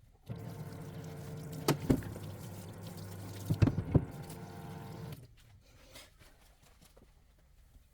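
Parts washer pump running, with fluid pouring over a Kawasaki EX250 engine case. There are sharp metal knocks about two seconds in and again around three and a half to four seconds, and the pump and flow cut off about five seconds in.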